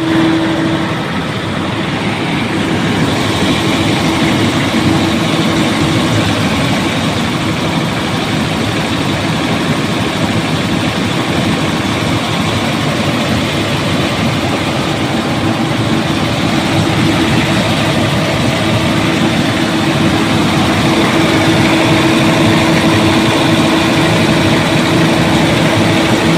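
Heavy diesel engine running steadily at a constant speed with a steady whine on top, after its fuel transfer pump was replaced.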